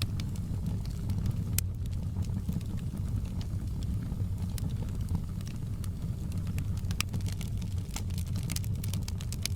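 Wood fire crackling, with sharp pops scattered unevenly through, thicker in the second half, over a steady low rumble.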